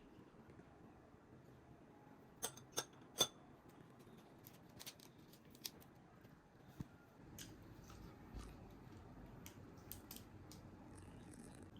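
Three sharp clicks in quick succession about two and a half seconds in, then a few fainter scattered clicks over quiet room tone.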